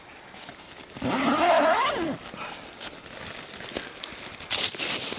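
A short wordless vocal sound that rises and falls about a second in, then scattered crackling and crinkling of nylon tent fabric being handled.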